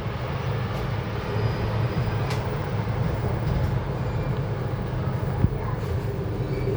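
VAL208 rubber-tyred metro train running between stations, heard from inside a car that has a slight traction-motor fault: a steady low rumble with a few sharp clicks, and a faint tone from the drive near the end.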